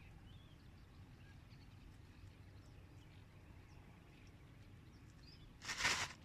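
Quiet marsh ambience: faint, scattered bird chirps over a low steady rumble. Near the end, a short loud burst of noise.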